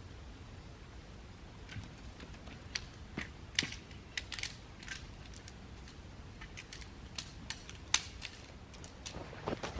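Wood fire crackling in a compact fire pit: irregular sharp pops and snaps, with one louder pop about eight seconds in.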